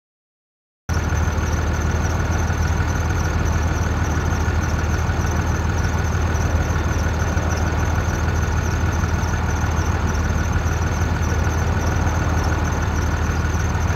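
A car engine idling steadily with a low hum, cutting in abruptly about a second in.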